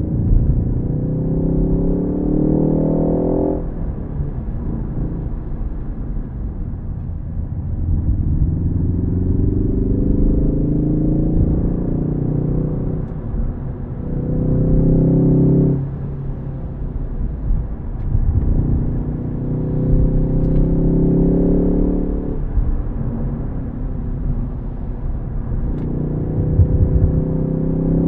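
Ford Focus ST engine pulling hard under acceleration, its note rising in pitch several times and dropping off sharply at each lift or gearshift, over a steady low road rumble.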